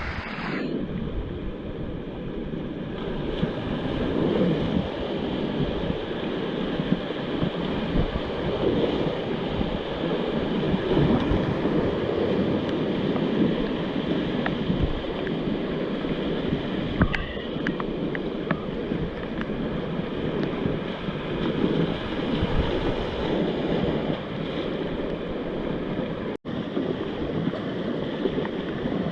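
Muddy river in heavy flood after a typhoon, fast water rushing and churning around a packraft running downstream: a steady loud rush.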